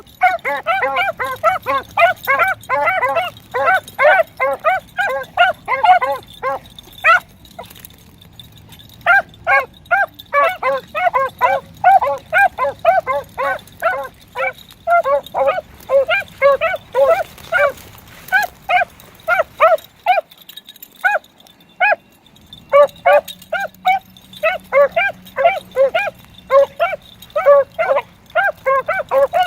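Two beagles baying on a rabbit's trail: rapid, repeated hound barks, about two to three a second, that stop briefly twice as the dogs check the line.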